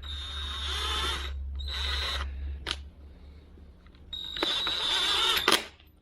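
A power drill running in three bursts, the first two short and the last about a second and a half, with a sharp click after the second and another at the end of the third.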